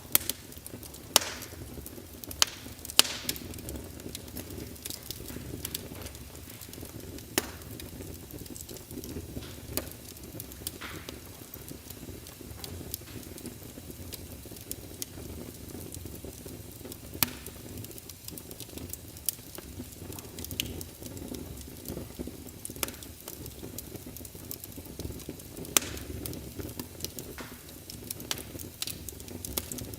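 Wood fire in a fireplace crackling: irregular sharp pops and snaps, a few much louder than the rest, over a low steady rush of the flames.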